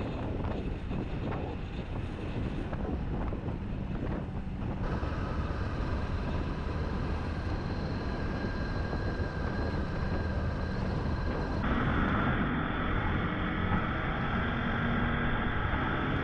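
Motorcycle engine running on the move, with wind noise on the microphone. The sound changes abruptly twice, about a third of the way in and again about two-thirds of the way in.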